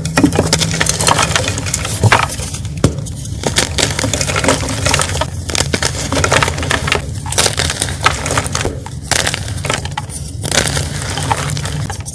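Blocks of Ader gym chalk being crushed, with dense, gritty crunching and crackling broken by brief pauses, over a steady low hum.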